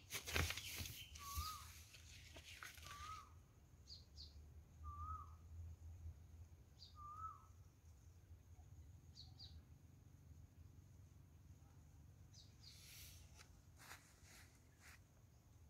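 A bird gives a short wavering whistled note about five times over the first seven seconds, with a few thin higher chirps. Faint rustling of caladium leaves being handled comes at the start and again near the end.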